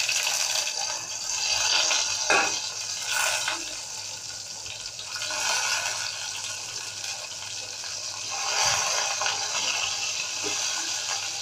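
Pointed gourd slices sizzling in hot oil as they are laid into a frying pan one at a time. The hiss swells several times as each new piece goes in, with a light knock or two.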